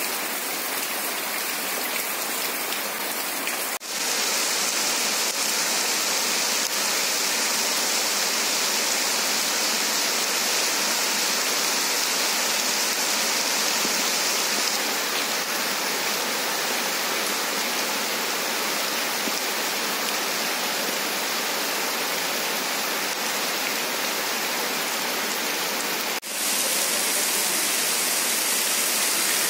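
Heavy rain falling steadily, a dense even hiss. The sound drops out for an instant twice, about four seconds in and near the end.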